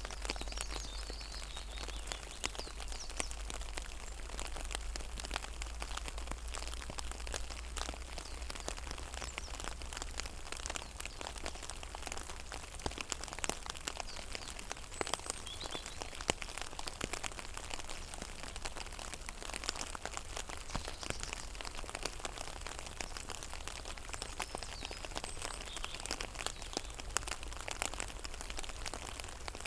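Rain falling on a pond: a steady, dense patter of drops hitting the water. Faint high bird chirps come through a few times.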